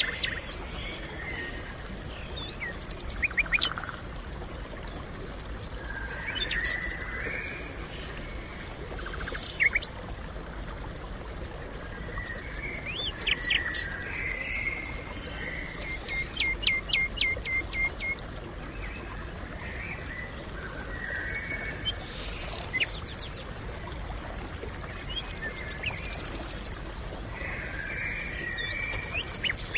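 Several wild birds calling and singing in a forest: scattered short chirps and whistles, with one bird repeating a run of short, evenly spaced notes about midway through, over a steady low background hiss.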